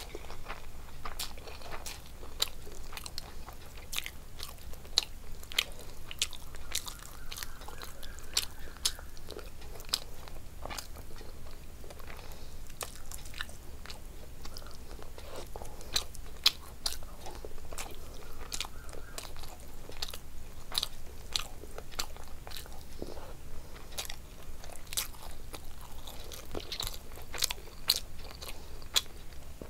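A person chewing and eating rice and fish curry by hand, with frequent sharp mouth clicks throughout.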